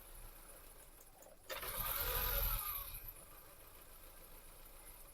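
A car engine is cranked by its starter motor and starts about a second and a half in. It runs louder for about a second and a half, then settles to a steady, quieter idle.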